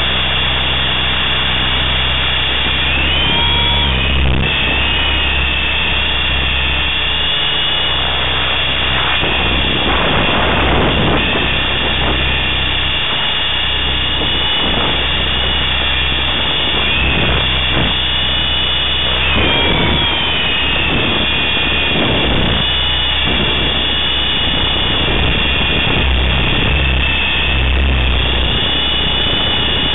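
Align T-Rex 500 electric RC helicopter in flight: the high whine of its brushless motor and drive gears, bending up and down in pitch a few times as the pilot works the controls, over the steady low beat of the main rotor.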